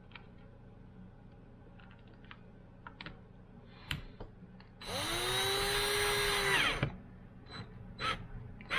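Power drill spinning up and running at a steady pitch for about two seconds, driving a screw tight, after a few light clicks and taps of handling.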